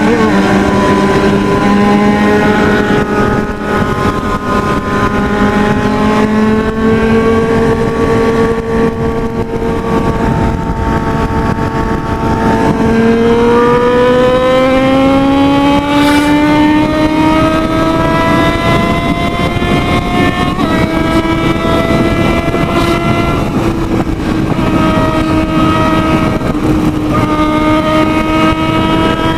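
Motorcycle engine running hard at high speed, its pitch climbing slowly as it accelerates and dropping at upshifts right at the start and about two-thirds of the way in, over a steady rush of wind noise.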